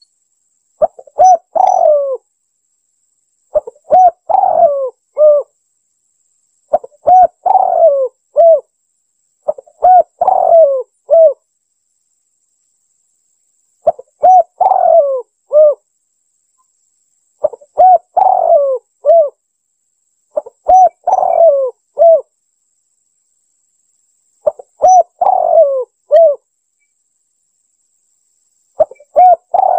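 Spotted dove (tekukur) cooing: a short phrase of several low coo notes, repeated about every three to four seconds, nine times over.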